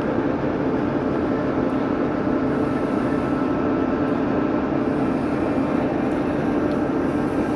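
TEP70 diesel locomotive running, its warmed-up 16-cylinder diesel engine humming quietly under a steady, even rumble, with a faint steady whine above it.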